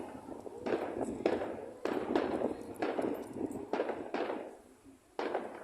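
Fireworks going off in a rapid string of bangs, about eight in all, roughly two a second, each dying away quickly, with a brief lull just before the last bang.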